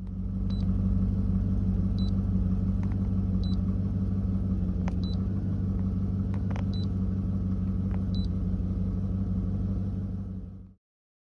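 The Escalade's 6.2-litre V8 engine idling with a steady low rumble, with a few faint light ticks about every second and a half.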